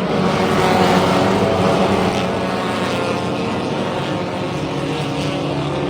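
Engines of front-wheel-drive race cars running at speed on a short oval, a steady multi-tone engine drone that swells a little about a second in.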